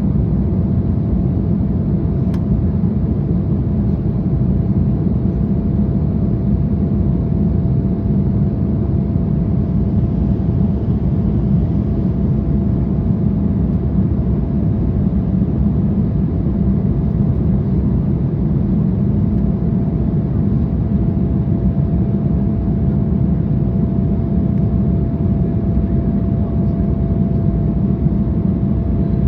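Steady cabin noise inside an Embraer 175 airliner in flight: an even low rumble of its turbofan engines and the air rushing past, with one faint steady whine above it.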